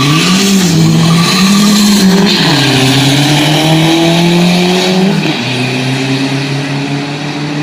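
Turbocharged Dodge Neon 2.4-litre engine accelerating hard at full throttle down a drag strip. The revs climb and fall back at upshifts about two seconds in and about five seconds in, then run steadier.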